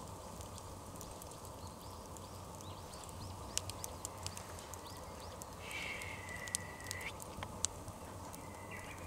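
Bonfire crackling with scattered sharp pops over a steady background rush. About six seconds in, a single drawn-out high call lasts just over a second, with a shorter one near the end.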